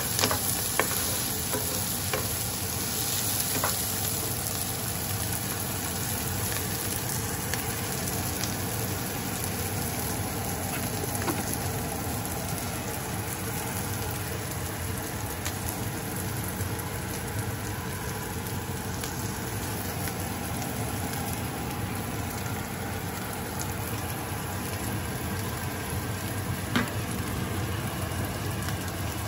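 Chopped onion and garlic sizzling steadily in oil in a nonstick frying pan. A wooden spoon clicks and scrapes against the pan a few times in the first seconds, and there is one sharp tap near the end.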